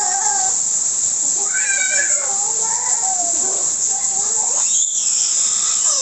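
Steady rush of flowing water, with several short, high, wavering calls over it.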